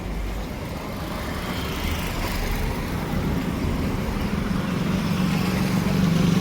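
Heavy diesel engine running, growing louder toward the end with a steady low hum.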